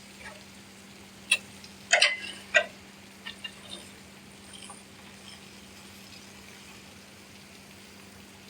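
Brushes and mops scrubbing an aircraft's wing: a few short squeaks and scrapes, the loudest cluster about two seconds in, over a steady low hum.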